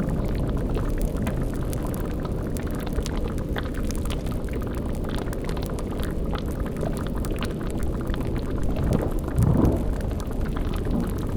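Layered spooky ambience of a bubbling cauldron with crackling and a steady low rumble, with one louder low swell about nine and a half seconds in.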